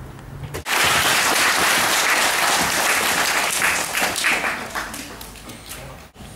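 Audience of schoolchildren applauding, the clapping starting suddenly about a second in and thinning out near the end.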